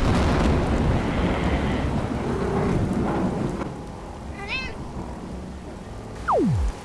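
A thunderclap with a heavy rain-like rumble that fades over a few seconds, then a short cat meow about four and a half seconds in. Near the end a quick whistle falls steeply in pitch.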